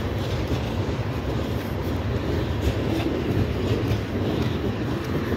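Norfolk Southern freight train of tank cars rolling past at speed, a steady low rumble of steel wheels on the rails with faint clicks as the wheels cross rail joints.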